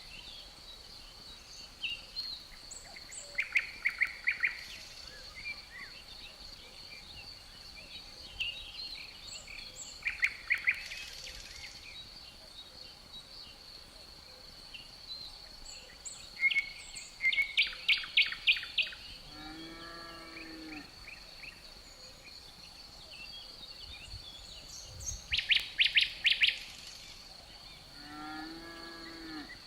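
Forest ambience: insects, likely crickets, trill on one steady high note throughout, and songbirds sing quick bursts of rapid notes several times. Twice a lower, drawn-out call of about a second stands out, about 20 seconds in and again near the end.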